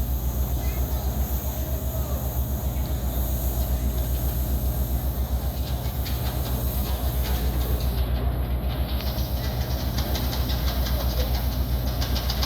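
Large ship diesel engine running steadily, a deep hum with a fast, even throb. In the second half a light rapid ticking rides on top of it.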